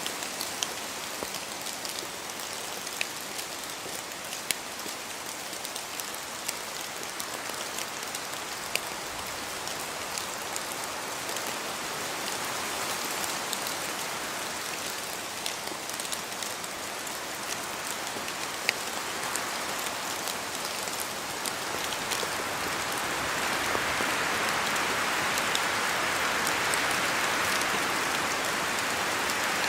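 Steady rain falling through spruce trees, with scattered louder drops ticking close by and wind in the branches. The rush grows louder about two thirds of the way through.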